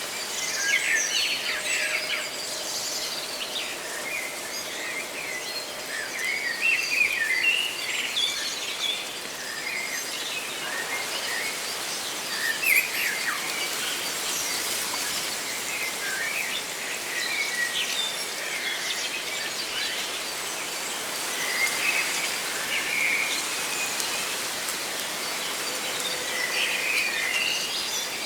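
Leaves rustling steadily with songbirds chirping on and off throughout, in short high calls.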